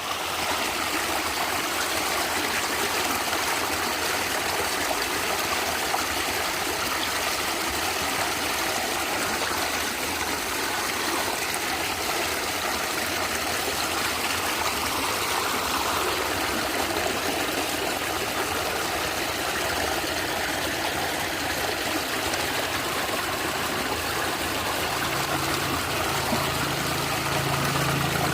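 Stream water running and gurgling steadily. A low steady hum comes in near the end.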